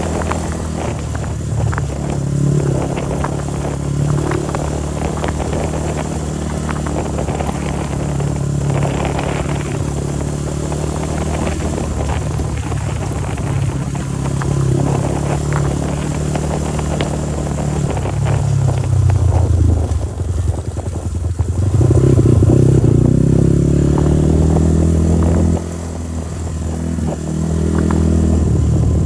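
Motorcycle engine running while riding, its pitch rising and falling with the throttle, over a constant rattle of knocks from the bike on rough ground. About two-thirds of the way through it revs harder and louder, drops suddenly, then climbs again near the end.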